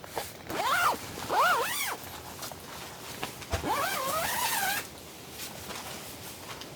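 Dog whining in three high, arching calls: two short ones in the first two seconds, then a longer wavering one near the middle.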